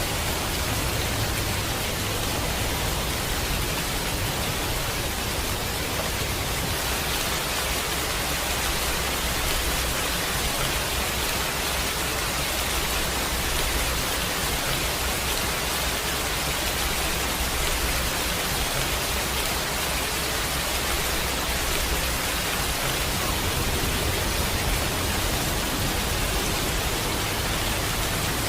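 Steady heavy rain, an even dense hiss, with a low rumble underneath that is stronger through the middle stretch.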